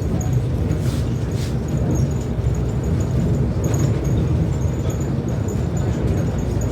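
Steady low engine and road rumble of a city bus on the move.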